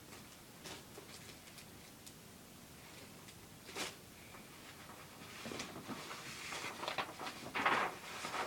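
Rustling and light clicking as the contents and packaging of a plastic model kit are handled. The handling is sparse at first and grows busier over the last three seconds.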